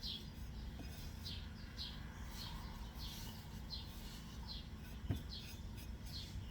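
A bird chirping over and over, short high falling chirps about twice a second, over a steady low hum, with one sharp click near the end.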